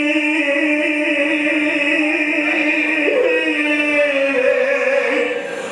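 A man's solo voice singing a long, drawn-out melismatic note in an Arabic elegy chant. The note wavers in pitch and shifts up about three seconds in and again near the end.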